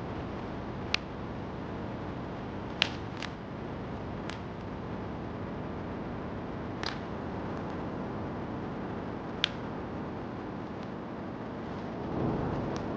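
Steady rain hiss blended with a crackling wood fire: about six sharp, isolated pops scattered over the steady noise, and a soft swell in the background near the end.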